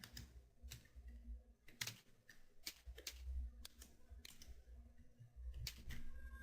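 Faint, irregular keystrokes and clicks on a computer keyboard, typing in text.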